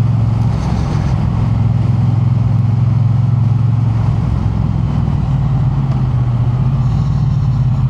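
Triumph Bonneville T100's parallel-twin engine running steadily at a low cruise, its pitch easing slightly about halfway through.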